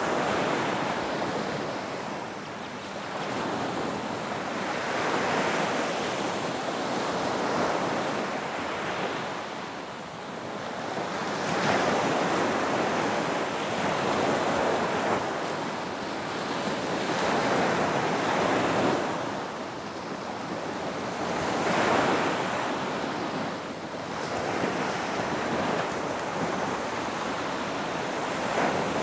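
Ocean waves breaking on a beach and washing up the shore, a steady surf hiss that swells and eases every few seconds.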